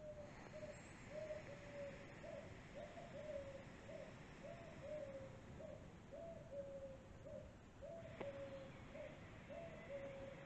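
A bird calling in a long, even series of short, low, slightly falling notes, about two a second. A single faint click comes about eight seconds in.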